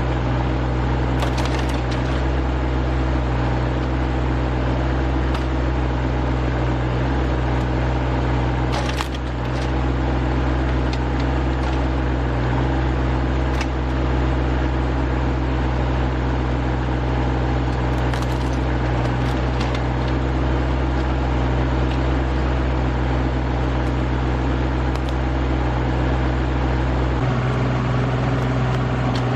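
RK25 subcompact tractor's engine running steadily while its backhoe works, with a few sharp knocks along the way. Near the end the engine's low note shifts.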